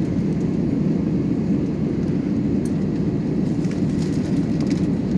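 Steady jet engine rumble and cabin hum inside an Airbus A321-200, heard from a rear window seat while the airliner taxis to the runway, with a few faint ticks of cabin fittings. The engine note holds even, without the rising surge of a takeoff roll.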